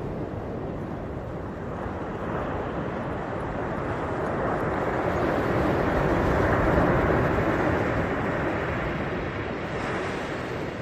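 Ocean surf: the rushing noise of a wave builds over a few seconds, is loudest about midway, then eases off.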